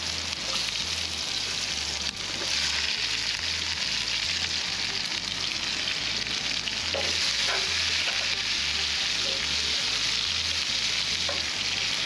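Onions frying in butter in a pan, sizzling steadily, the sizzle growing louder about two seconds in.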